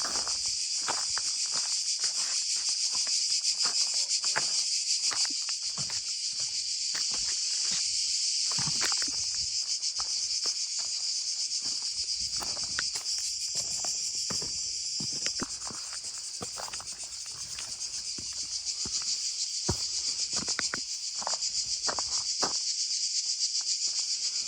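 Chorus of cicadas, a dense steady high-pitched buzz that eases a little about two-thirds of the way through, with irregular footsteps below it.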